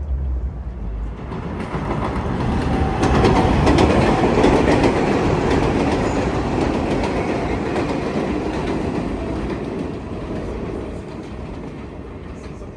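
New York City subway train going by on the elevated line, its wheels clicking over the rail joints; it builds to its loudest about four seconds in, then slowly fades.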